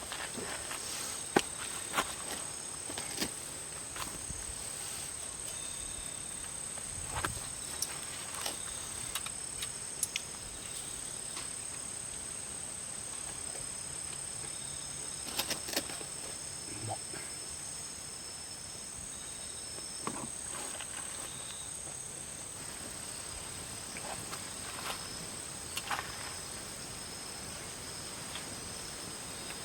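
Steady high-pitched chorus of insects, several constant tones held together, with scattered sharp clicks and knocks.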